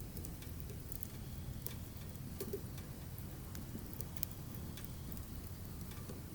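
Firewood burning, with irregular sharp crackles and pops over a low, steady rumble of the fire.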